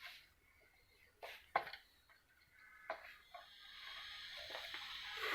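A few faint sharp clicks and knocks of small plastic printer parts being handled during disassembly. From about three and a half seconds in, a faint steady hiss builds.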